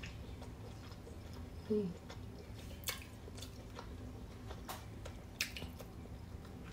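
A person chewing a mouthful of soupy braised fish close to the microphone, with soft wet mouth sounds and a few sharp clicks. There is one short falling hum about two seconds in.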